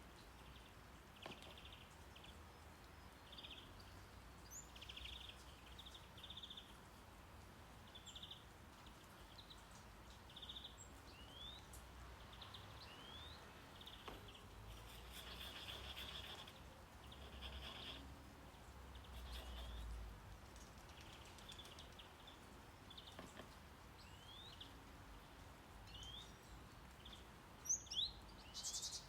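Faint background birdsong: short chirps and quick rising whistles repeating every second or so over a low, steady rumble of brown noise, with two sharp, louder clicks near the end.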